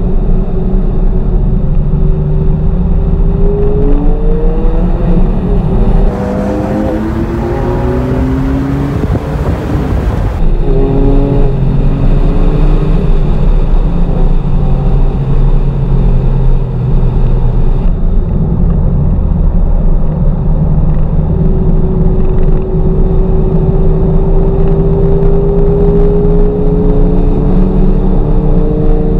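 A Porsche 911 Targa 4S's twin-turbo flat-six heard from inside the cabin at speed on track. Its pitch climbs and drops again and again as the car accelerates and shifts, with a few seconds of rushing noise over it about six seconds in. Near the end it makes one long, slow rise.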